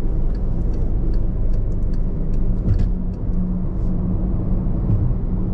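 Car driving at highway speed, heard from inside the cabin: steady engine and road rumble with a constant low drone and a few faint ticks.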